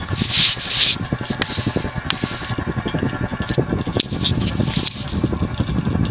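Cast-iron-motor Windward (TAT) 36-inch industrial ceiling fan running on medium with a rapid, irregular crackling rattle that sounds like arcing. The rattle comes from the loose, unsecured washer at the fan's decorative nipple, on top of a light bearing noise from smooth but worn bearings.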